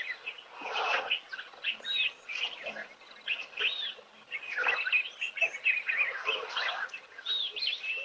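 Several wild birds chirping and calling, a busy mix of quick chirps and short curving whistles that come in clusters with brief lulls.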